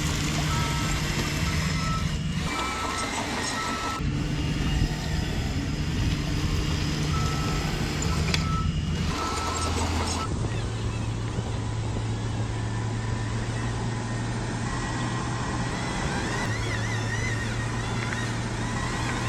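Engine sound of an RC truck or other model machine running steadily, its pitch stepping between levels a few times, with a reversing beeper pulsing on and off during roughly the first half.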